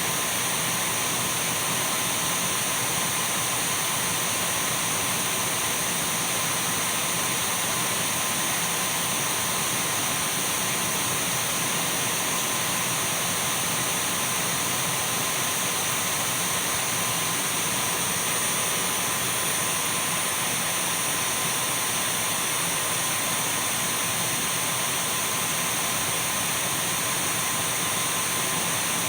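Dyson V12 cordless stick vacuum cleaner running steadily: a constant rush of air with a thin, high-pitched whine held over it.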